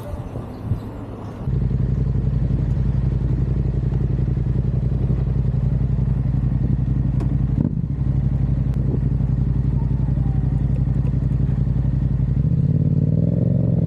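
Motorcycle engine running at a steady pace while riding, cutting in abruptly about a second and a half in after a quieter stretch; near the end the engine note climbs and settles higher.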